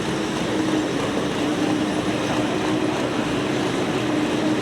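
Pulling tractor's engine running at a steady pitch, a constant heavy drone with no revving or bursts.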